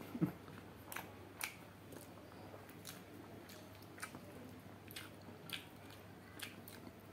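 Close-miked chewing of chicken curry, with scattered wet mouth clicks and smacks about once or twice a second.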